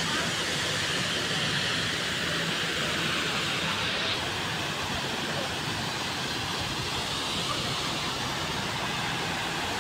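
Waterfall's water falling and splashing in a steady rush.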